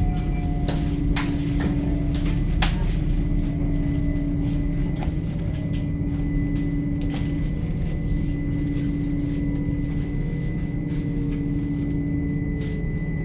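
Passenger train running, heard from inside: a steady rumble of wheels on the track with a steady hum and a faint high whine, and scattered sharp clicks and knocks.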